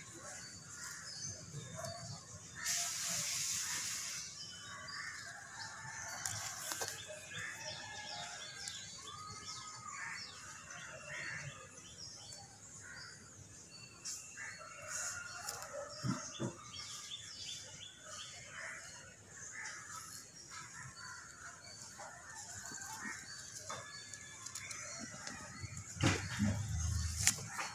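Birds chirping and calling in short, scattered notes, with a brief rush of noise about three seconds in and a low rumble near the end.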